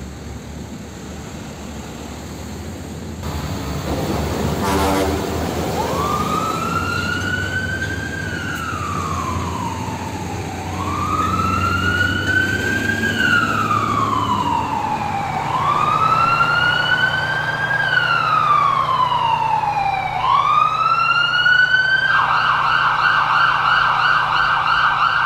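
Fire engine siren wailing, rising and falling in slow cycles of about five seconds from about six seconds in, then switching to a fast yelp near the end, over a low vehicle engine rumble.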